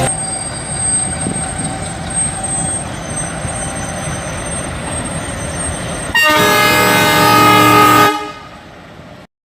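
Railway noise rumbling steadily, then about six seconds in a train's horn blares for about two seconds, the loudest sound, before fading away.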